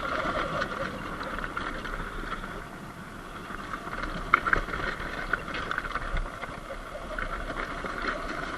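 Sur-Ron Light Bee X electric dirt bike riding on a dirt road: a steady electric motor whine over tyre and gravel noise, with scattered ticks and rattles and some wind on the microphone.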